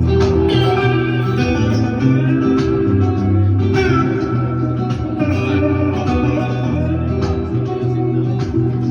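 Live instrumental guitar music: plucked guitars playing a slow melody over steadily ringing low notes, with a note gliding in pitch about four seconds in.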